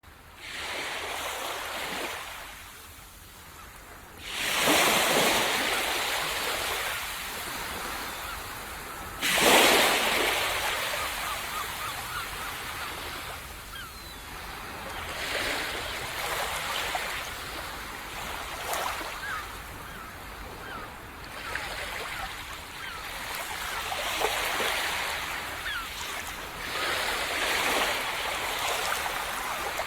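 Small waves breaking on a tropical sandy beach and washing up the shore: two louder breaks about four and nine seconds in, then gentler swells of surf.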